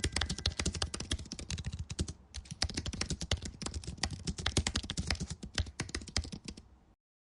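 Rapid typing on a computer keyboard: a quick, uneven run of key clicks with a short break about two seconds in, stopping near the end.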